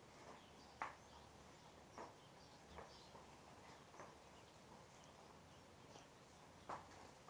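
Faint short ticks from small birds, five or so brief sounds spaced about a second apart, against near silence.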